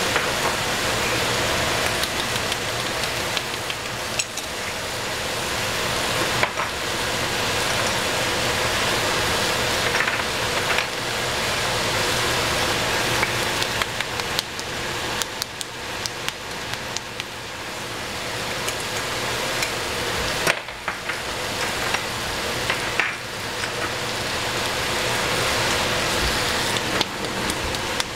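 Vegetables sizzling in hot oil in a pan, with now and then a short knock or scrape of a utensil stirring them.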